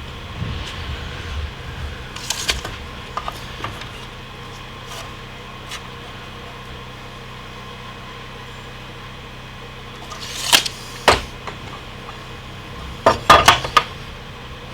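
Scattered knocks and clattering from handling wooden boards and tools: a few knocks about two seconds in, a couple about ten seconds in, and a quick cluster near the end, over a steady low hum.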